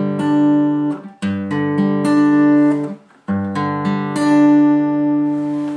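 Acoustic guitar fingerpicked on a G chord with the ring finger on the 3rd fret of the 2nd string: the thumb on a bass string, then the top string, then strings 4, 3, 2 in turn. The pattern is played three times, the strings going quiet briefly about a second in and again about three seconds in.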